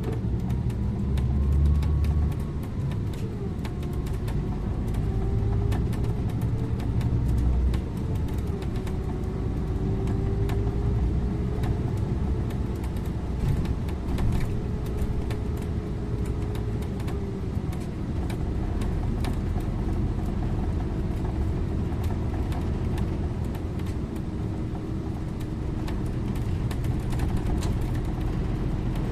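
Scania InterLink bus under way: a steady low rumble with a whine that drifts up and down in pitch as the speed changes, and frequent small ticks and rattles.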